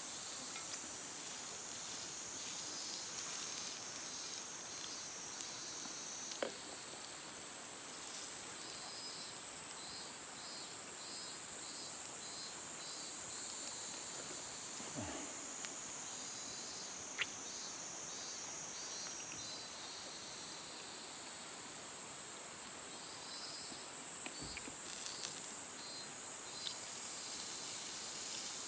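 Insects singing, crickets among them: a steady high-pitched buzz layered with rapid pulsed chirping, broken by a few sharp clicks.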